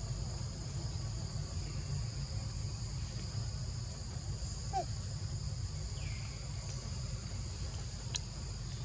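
Insects, cicadas or crickets, droning steadily in two high-pitched bands over a low rumble, with a few brief chirps near the middle and a short click near the end.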